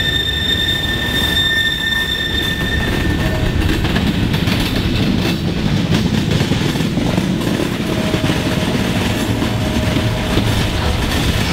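Freight cars of a mixed manifest train rolling past close by: a steady rumble of steel wheels on rail. A high-pitched wheel squeal stops about three seconds in, and a fainter, lower tone sounds near the end.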